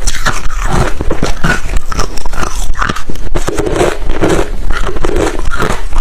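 Close-miked crunching of refrozen crushed hard ice between the teeth: rapid, continuous cracks and crunches as the ice is bitten and chewed.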